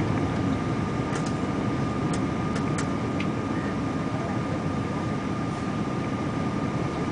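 Steady cabin noise inside a Boeing 777-200ER airliner, a low even roar with a thin steady whine running through it. A few faint ticks come in the first three seconds.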